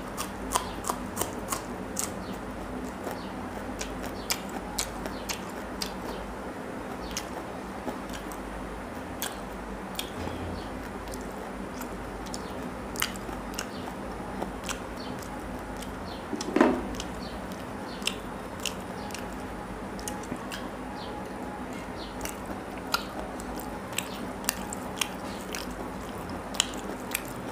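Close-up chewing and biting of rice and curry eaten by hand, with frequent sharp, wet mouth clicks. A single louder knock comes about two-thirds of the way through.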